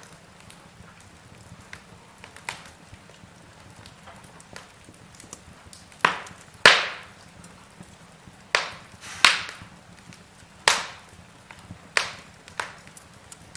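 Logs burning in a fireplace, crackling with sharp, irregular pops over a faint steady hiss. The pops grow louder and more frequent from about halfway through.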